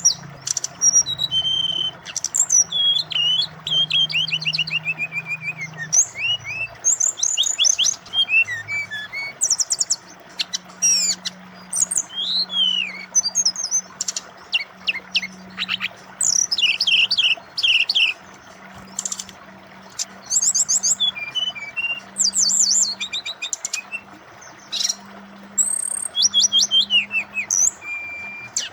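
Brown-chested jungle flycatcher (SRDC) singing a long, varied run of rapid whistles, trills and sweeping notes with short pauses between phrases, over a steady background of running water.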